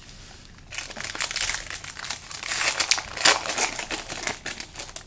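Crinkling wrapper as a pack of football trading cards is torn open, a dense crackle of plastic or foil wrapping that starts under a second in and runs for about four seconds.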